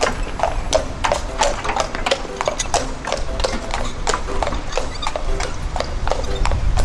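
Ban'ei draft horse's hooves clip-clopping at a steady walk, about three hoofbeats a second, over a steady low rumble.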